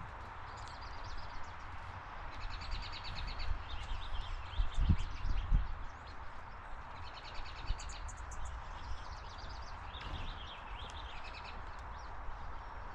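Birds calling in quick series of short high chirps, several bouts one after another, over a steady outdoor hiss, with two low thumps about five seconds in.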